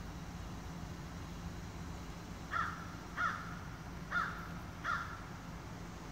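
A bird calling four times in short calls, in two pairs, starting about two and a half seconds in.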